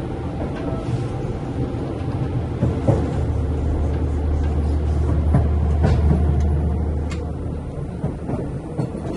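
Seibu 4000 series train running, heard from inside the car: a steady low rumble that swells for a few seconds in the middle, with a few short knocks.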